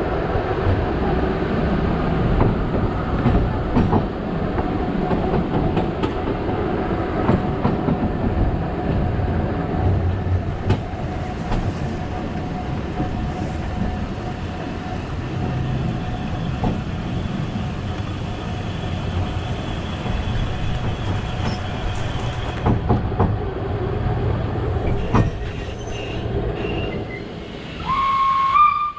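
Narrow-gauge steam train running along the track, a steady rumble with scattered clicks from the rails. Near the end comes a brief loud high tone that rises slightly in pitch.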